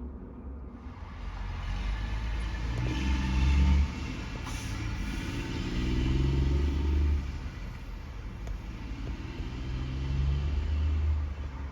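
Heavy truck engine rumbling as it drives. It swells louder three times, each time dropping back abruptly.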